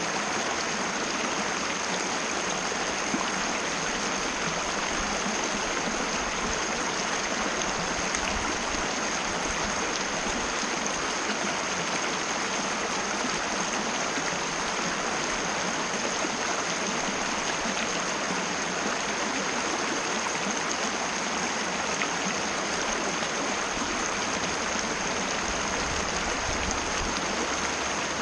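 Mountain river water rushing steadily over rocks, an even, unbroken rush.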